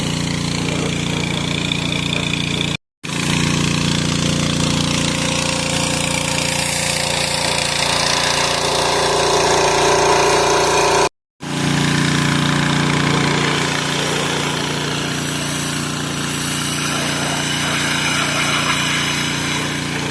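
Engine-driven pressure washer running steadily, with two brief cuts to silence, about three and eleven seconds in.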